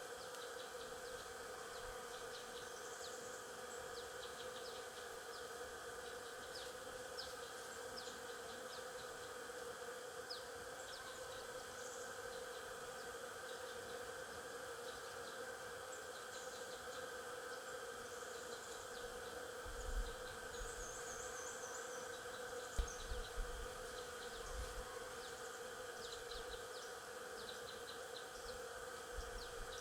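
Stingless bees buzzing in a steady, continuous hum, with scattered short high chirps over it. A few low thumps come about two-thirds of the way through.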